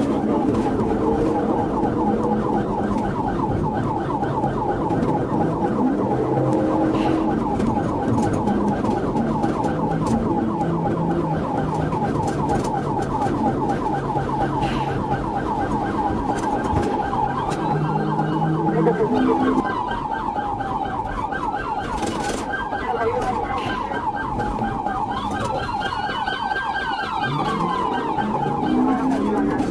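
Police car siren in a fast, rapidly repeating yelp, over engine and road noise. From about twenty seconds in, slower rising-and-falling siren wails join it.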